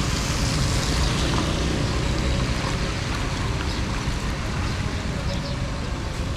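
Steady rushing of water with a deep rumble underneath.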